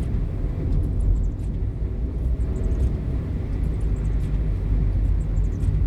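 Toyota car driving up a steep rainforest road, heard from inside the cabin: a steady low rumble of engine and tyres. Faint short high chirps come through now and then.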